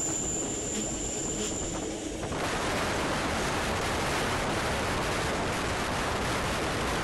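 Rhaetian Railway train running on a tight curve: a thin, high wheel squeal rings over the rumble of the wheels on the rails. About two seconds in the squeal stops, and wind rushing past the microphone takes over.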